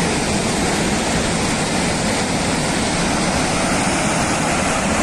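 Steady, loud rushing roar of a flood torrent of water and debris pouring down a slope.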